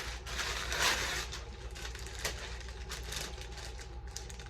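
Rustling and crackling of packaging as items are handled and taken out of a cardboard box, with two louder swells of rustle near the start and about a second in, then scattered small crinkles and clicks.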